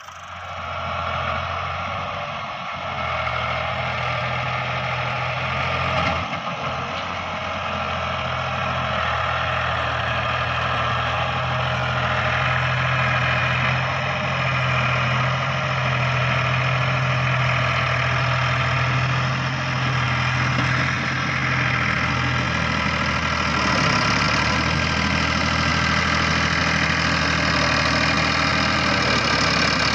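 Tractor diesel engine running steadily at an even speed, picking up a little over the first few seconds and then holding.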